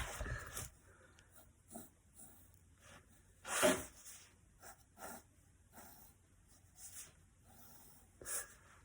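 Faint, short pen strokes on paper as lines are drawn, with a louder, squeakier stroke about three and a half seconds in.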